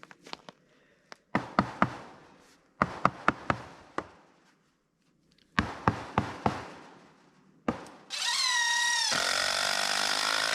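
Three quick runs of sharp hammer-like blows on wood, then a cordless drill/driver runs loudly for about two seconds near the end, its pitch dropping and turning rougher as it takes up the load of a screw.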